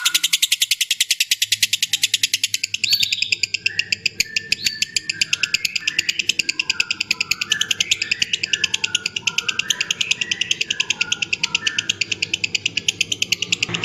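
Lovebird doing its long 'ngekek' chatter: a fast, steady string of high, sharp notes at about seven a second. From about three seconds in it is joined by lower, varied chirping.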